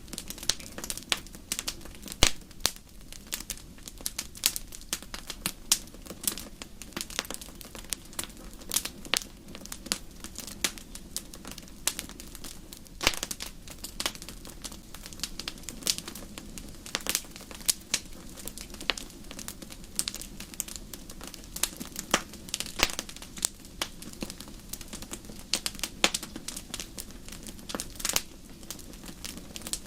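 Campfire crackling: irregular sharp pops and snaps, many a second at uneven spacing, over a low steady rumble.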